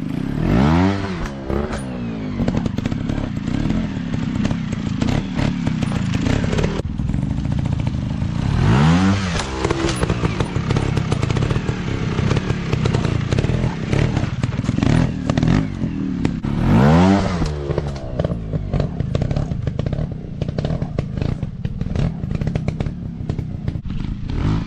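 Dirt bike engines running, revving up and back down repeatedly, with three sharp rev sweeps near the start, about a third of the way in, and about two-thirds in.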